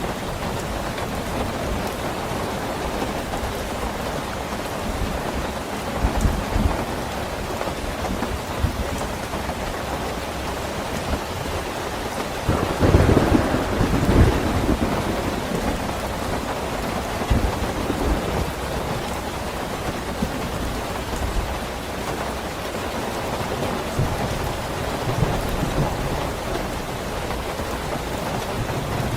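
Steady heavy rain with low rolling rumbles of thunder, the loudest rumble about halfway through.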